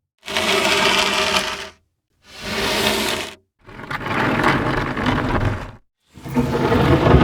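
Four separate foley sound effects in a row, each a noisy burst lasting one to two seconds with short silences between; the third is the longest.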